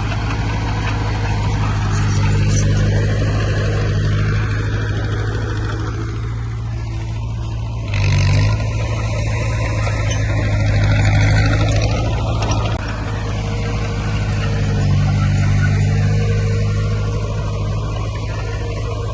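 Heavy earthmoving equipment's diesel engine running steadily under load, with a brief rise in engine pitch about eight seconds in and a louder stretch soon after.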